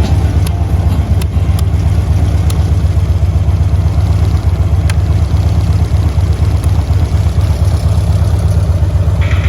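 2006 Harley-Davidson Road Glide's 1450 cc fuel-injected V-twin idling steadily through S&S oval mufflers, with a deep, even pulse.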